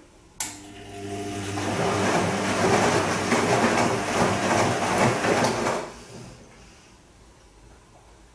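Bosch Serie 2 VarioPerfect washing machine on its delicate Silk wash: a click about half a second in, then the drum motor hums up and the drum turns, water and laundry sloshing for about five seconds before it stops.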